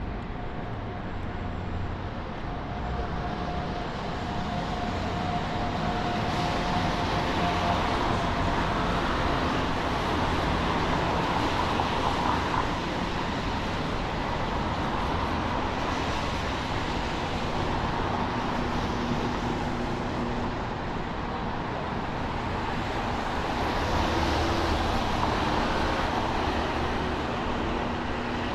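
City street traffic on wet pavement: a steady hiss of cars passing, swelling louder twice as vehicles go by.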